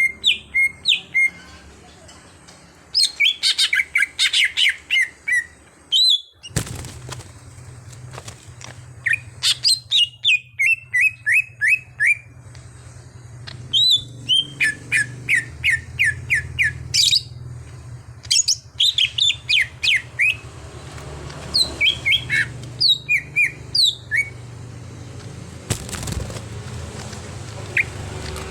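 Greater green leafbird (cucak hijau) singing in bouts of rapid, sharp whistled notes that sweep up and down, with short pauses between bouts. A low steady hum runs underneath from about six seconds in.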